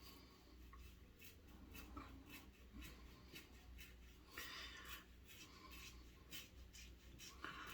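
Gillette Red Tip safety razor scraping through shaving lather on skin in short, faint strokes, about two a second, with one longer stroke near the middle.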